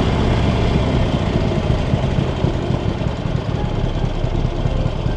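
Harley-Davidson Sportster Iron 883's air-cooled V-twin engine running steadily at low revs, with a dense low pulsing that eases off slightly near the end.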